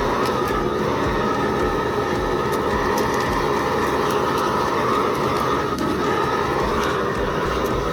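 Large Shinfuji butane gas torch firing a steady jet of flame onto damp firewood, with small sharp crackles from the wood now and then.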